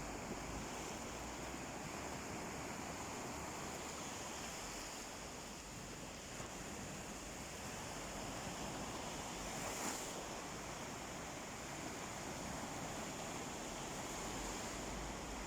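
Sea surf washing steadily onto a beach, with a brief tick about ten seconds in.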